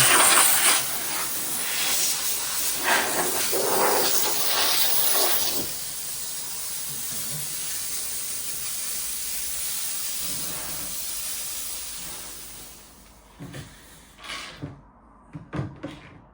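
Small handheld steam cleaner jetting steam in a steady hiss, louder for the first five seconds or so, then fading out about thirteen seconds in. A few short knocks follow near the end.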